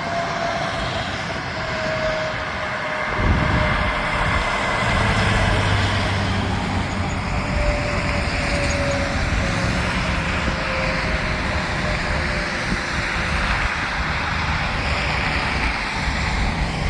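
Interstate highway traffic with trucks passing: a steady rush of tyre and engine noise, with a faint whine that slowly sinks in pitch.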